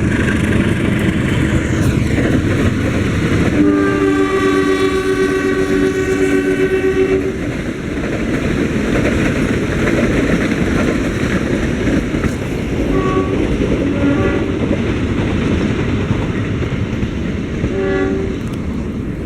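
A train passes close by with a loud steady rumble of wheels on rail. Its horn sounds one long blast about four seconds in, lasting some four seconds. A few short toots follow later on.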